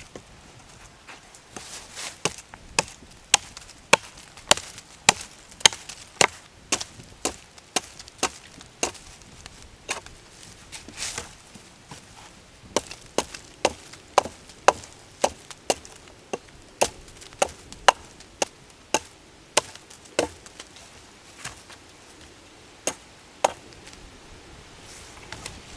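Firewood being chopped: a long run of sharp wooden strikes, about two a second, with a couple of short pauses.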